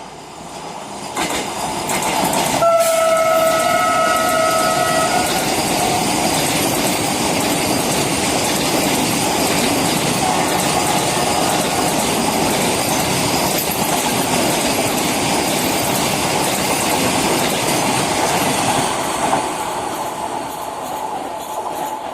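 A train passes at speed close by, its running noise building up over the first couple of seconds, holding loud and steady, and easing off near the end. Its horn sounds once for about two seconds shortly after the start.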